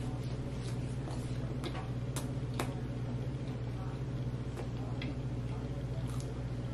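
Closed-mouth chewing of a crispy chicken sandwich: soft irregular clicks and crunches, about ten spread unevenly, over a steady low hum.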